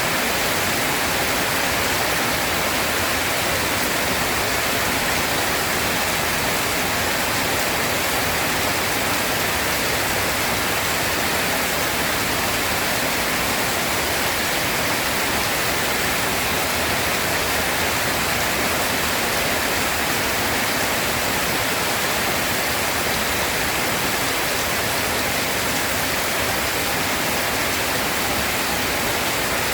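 Steady rain falling, an even, unbroken hiss with no thunderclaps.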